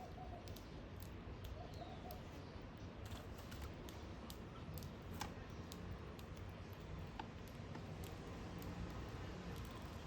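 Scattered faint, sharp clicks at irregular spacing over a steady low background rumble.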